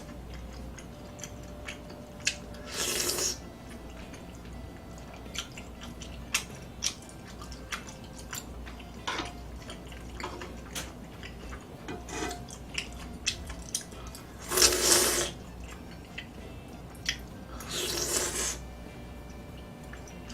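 Close-miked eating: wet chewing and mouth clicks throughout. Three louder rushes of eating noise come about three seconds in, near fifteen seconds and near eighteen seconds.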